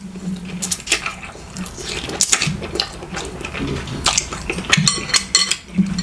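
Mukbang eating sounds: utensils clicking and scraping against a dish, many short irregular clicks, with chewing and short low mouth hums in between.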